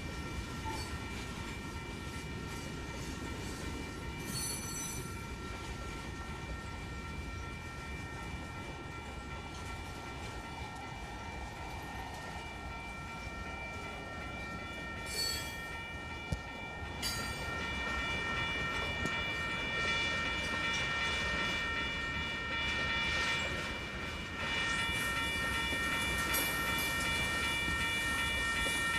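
Freight train led by a CSX diesel locomotive passing, with a steady rumble and the locomotive's multi-note air horn chord held throughout, growing louder about halfway through. A few short sharp clicks come through near the start and the middle.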